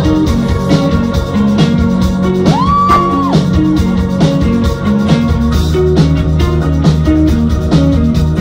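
Rock band playing an instrumental passage with a steady drum beat, bass line and guitar notes; about three seconds in, a high note slides up, holds briefly and slides back down.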